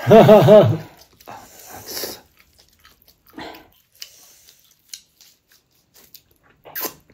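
Eating sounds: biting and chewing food with small scattered clicks and crunches, the loudest near the end. Right at the start comes a short, loud vocal sound of three quick rising-and-falling notes.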